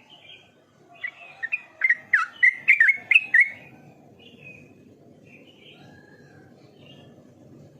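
Yellow-vented bulbul (trucukan) singing a quick, loud burst of chirped and slurred whistled notes for about two and a half seconds, starting about a second in, followed by softer scattered calls.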